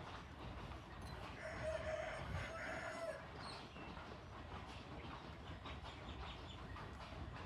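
Water running steadily onto plant leaves, with a rooster crowing once, a call of about two seconds in two parts, starting about a second in.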